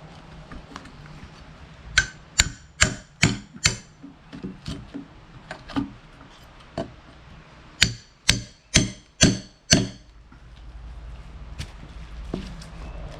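Hammer blows on a log, digging out an embedded 16-penny nail: two runs of five sharp strikes about two a second, with lighter taps between.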